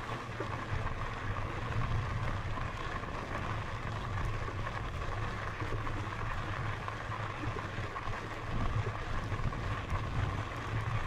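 Steady riding noise from a Lectric XPEAK 2 electric bike on the move: a low rumble from wind and tyres, with a steady hum higher up.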